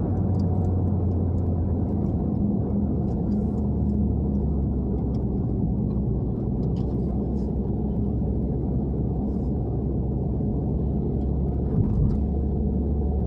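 Honda Civic hatchback engine and road noise heard inside the cabin, running at a steady cruise with a low drone. The engine note settles a little lower a few seconds in, and there is one brief knock near the end.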